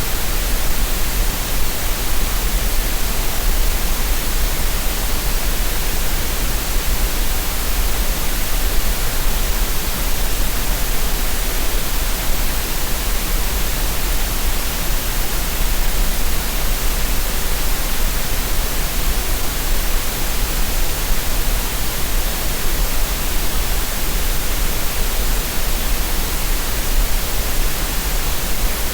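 Green noise: a steady, unchanging synthetic hiss with a deep hum-like band underneath, used as a tinnitus-masking relaxation sound.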